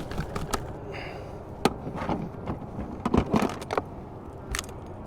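Irregular knocks, clicks and rustling from slippery Spanish mackerel being handled aboard a fishing kayak, with a few sharper knocks in the middle.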